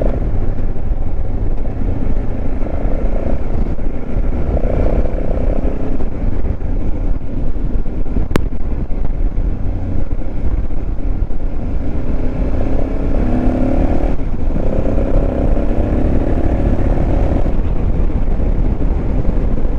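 Motorcycle engine running under way on a twisty road, its note changing pitch as the throttle opens and closes, with a brief dip about fourteen seconds in, over steady wind rumble on the microphone.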